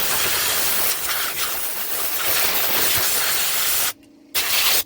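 Compressed-air blow gun hissing as it blows dirt and debris out from around a mower's hydrostatic transaxle. A long blast cuts off suddenly almost four seconds in, and a short blast follows near the end.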